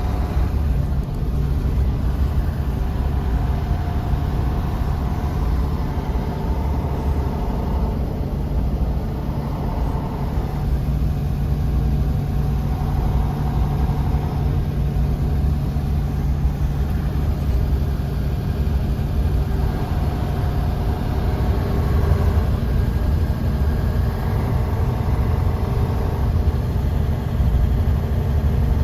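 Bus engine running and road rumble heard from inside the bus cabin: a steady deep rumble with faint whining tones that slowly rise and fall in pitch.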